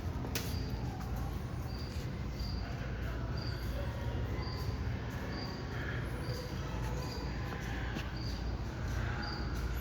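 A short high-pitched electronic beep repeating evenly, a little more than once a second, over the steady low hum of a large hall.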